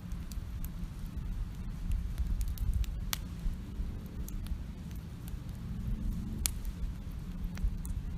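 Campfire burning outdoors: wood crackling with a few sharp pops, two louder ones about three and six and a half seconds in, over a low steady rumble.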